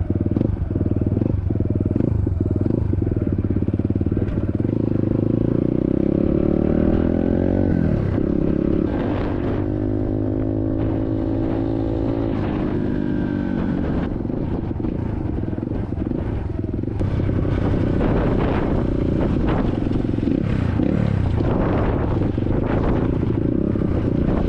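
SSR 150 dirt bike's single-cylinder four-stroke engine running under way. Its pitch climbs, drops sharply, climbs again and holds, then drops a second time, as it revs up and shifts gears. There are scattered rattles from the ride.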